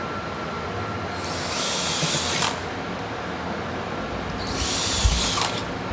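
A cordless drill boring through the steel table frame with a 1/8-inch bit, in two short bursts of about a second each, a few seconds apart.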